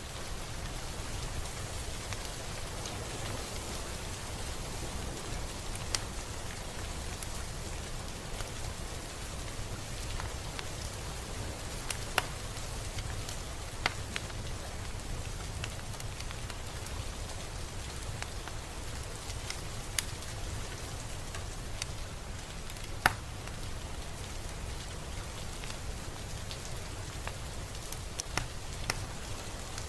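Steady rain falling, with now and then a sharper, louder drop striking close by.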